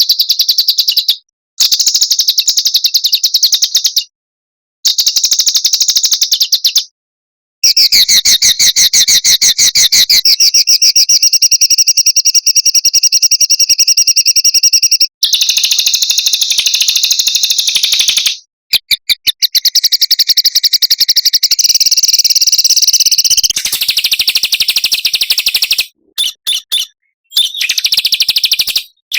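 Small songbirds singing fast, dense high trills and rattling runs of notes, the kind used as training song ('masteran') for pet songbirds. The song comes in bursts of one to several seconds, each ending in a sudden cut to silence. A few short separate chirps come near the end.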